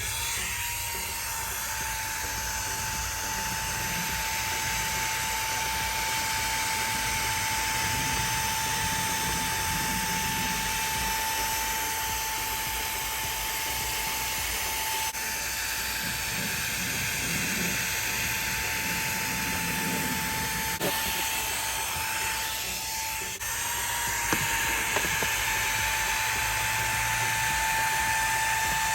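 Xiaomi Mi Vacuum Cleaner mini, a small handheld vacuum, running with a steady motor whine over the hiss of rushing air. The sound dips briefly about 23 seconds in, then carries on.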